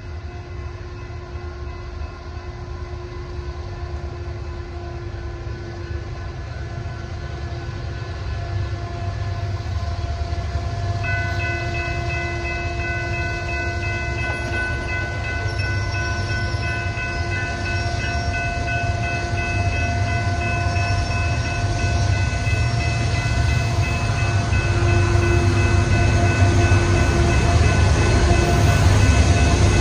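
BNSF train approaching, its low rumble growing steadily louder, with the locomotive horn held in long steady blasts that grow stronger about a third of the way through.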